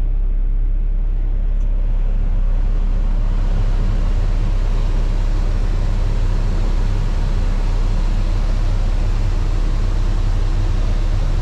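Diesel engine of a Cat excavator running just after a keyless push-button start, a steady low drone. Its higher noise fills in over the first few seconds and then holds steady.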